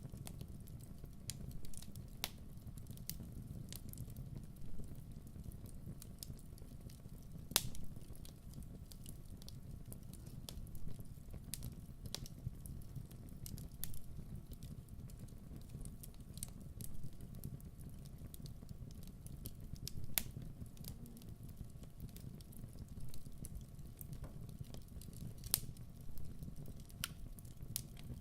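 Wood fire burning with a steady low rumble and irregular sharp crackles and pops, a few each second, a louder pop about seven and a half seconds in.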